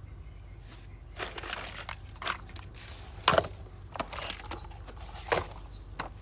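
Plastic toy vehicles being handled and shifted: rustling and scraping with several sharp clacks. The loudest clack comes a little past the middle.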